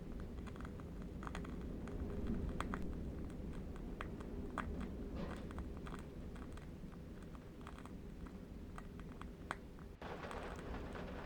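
Steady low wind rumble with scattered, irregular small crackles from a burning candle wick. Near the end the background changes abruptly to a brighter hiss.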